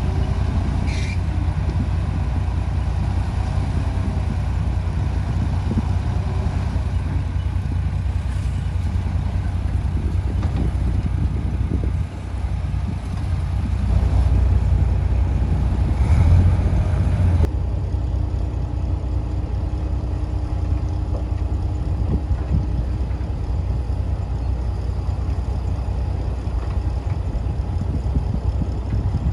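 Heavy diesel construction machinery running with a steady deep rumble, swelling louder for a few seconds about halfway through. The sound changes abruptly about two-thirds of the way in.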